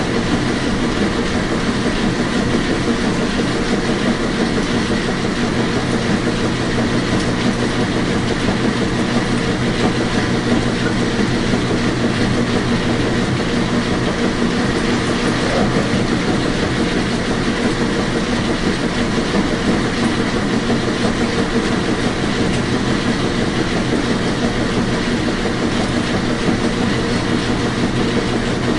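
Washing machine running: a steady, unchanging rumble with a constant hum and a dense fine rattle.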